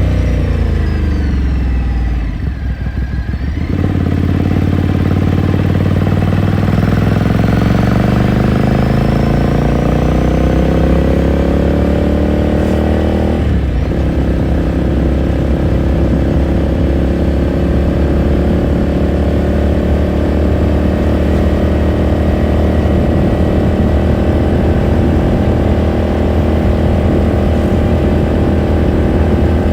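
Exhaust of a 2018 Ducati Scrambler Sixty2's air-cooled L-twin, heard onboard while riding. The revs fall for the first few seconds, then climb steadily through a gear, break briefly at a gear change about halfway, and hold steady at cruising speed.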